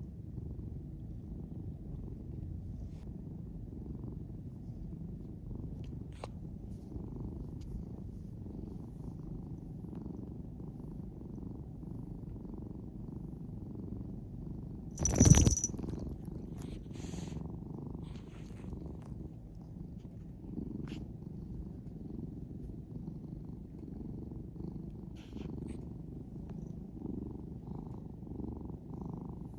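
A domestic cat, just woken from sleep, purring steadily with a low continuous rumble. About halfway through there is one brief, much louder sound.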